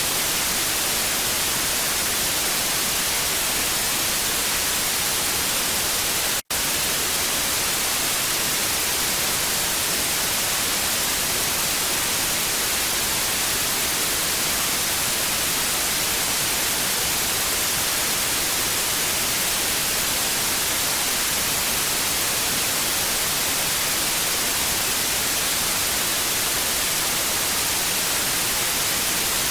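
Steady television static hiss, strongest in the treble, with a split-second dropout about six and a half seconds in.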